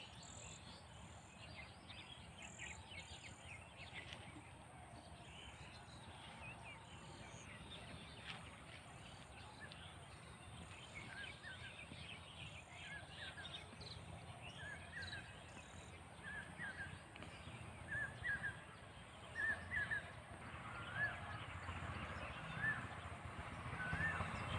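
Outdoor ambience with birds chirping over a steady low background noise. From about halfway, one bird repeats a short call roughly once a second, growing louder toward the end.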